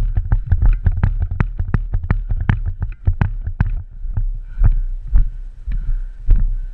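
Rapid running footsteps of an airsoft player, with gear jostling at each stride and wind rumbling on a body-worn camera microphone. The steps come about three to four a second for the first few seconds, then slow and thin out.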